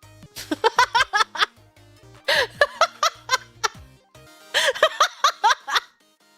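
A woman's voice making quick runs of short, high-pitched giggling noises, three runs in all, over faint background music.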